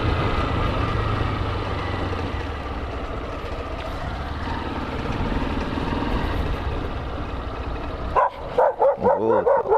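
A road vehicle running steadily, with engine and road noise; about eight seconds in, a dog breaks into a string of short yips and barks.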